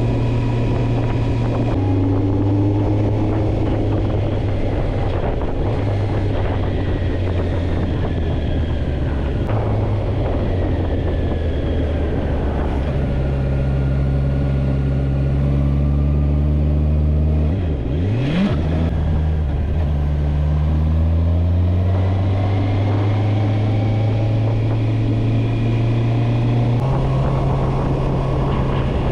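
Motorcycle engine running on the road, its pitch rising with throttle and stepping with gear changes. About eighteen seconds in there is a brief sharp swoop down and back up in pitch.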